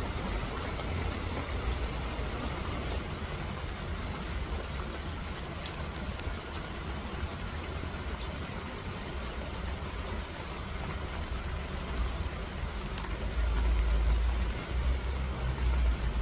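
Steady rain falling, with a few sharper drip ticks. A deep low rumble grows louder near the end.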